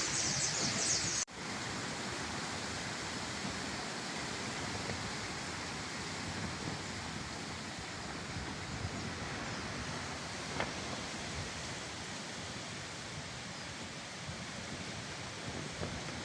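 Strong wind blowing steadily outdoors, an even rushing hiss with no distinct gusts. About a second in it breaks off abruptly and resumes a little quieter, with less high hiss.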